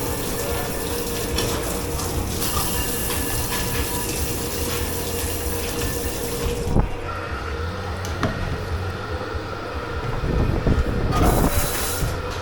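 Water running hard into a dish-pit sink, cut off sharply about seven seconds in, followed by a few knocks and clatters and a second short burst of water near the end, over a steady machine hum.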